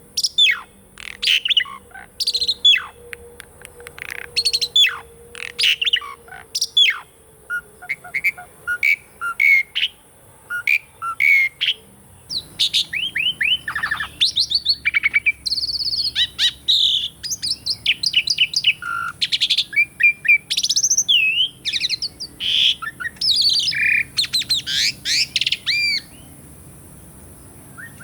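Asian pied starling (jalak suren) singing: a string of sharp, falling whistled notes, then from about halfway a denser, varied song of whistles and chattering notes that stops shortly before the end.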